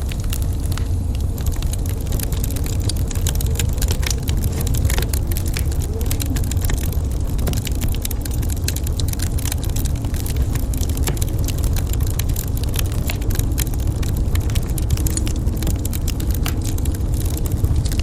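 Wood fire crackling in a fireplace: frequent small pops and snaps over a steady low rumble of the burning fire.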